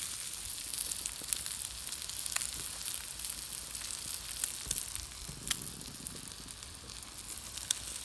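An egg and sliced kielbasa frying in a hot cast iron skillet: a steady sizzle in the sausage fat, with scattered sharp pops and crackles.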